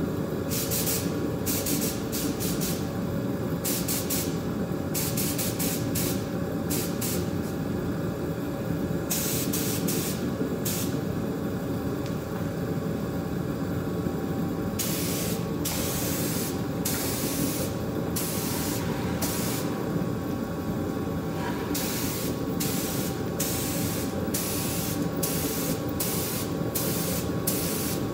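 Spraying in a body shop: repeated hissing bursts of spray, mostly short and a few lasting a second or two, at irregular intervals over a steady mechanical drone.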